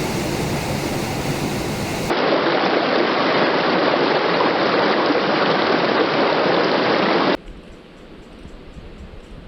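Waterfall rushing as a steady roar of water that is louder for a few seconds in the middle and then drops abruptly to a much quieter wash near the end.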